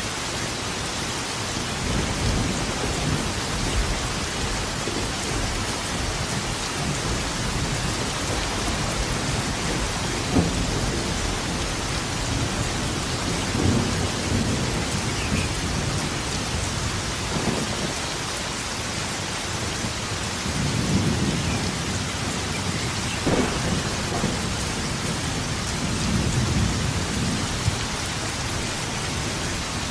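Steady heavy rain with thunder rumbling again and again, a few seconds apart. A sharper clap comes about ten seconds in and another a little past twenty.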